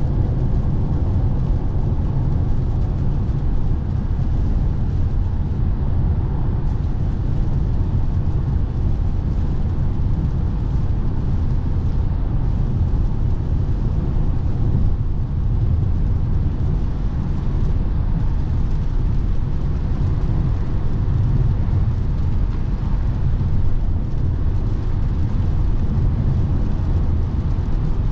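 Cabin noise of a 2017 Lexus NX 300h hybrid driving at autobahn speed: a steady, deep rumble of road and wind noise with no distinct events.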